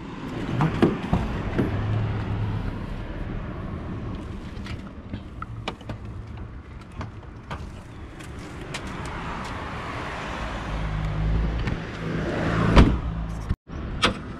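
Nissan Skyline R33 GTS-T's RB25DET turbocharged straight-six idling steadily, with scattered clicks and a loud sharp knock near the end.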